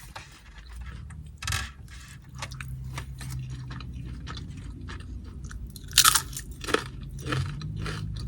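Close-up chewing and crunching of carne asada tortilla chips, a run of crisp crackles with the loudest crunch about six seconds in.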